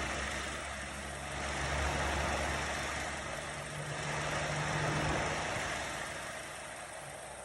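2004 Mazda 6's 2.3-litre four-cylinder engine idling steadily, warm, while its cooling system is bled of air pockets. The level swells and eases twice.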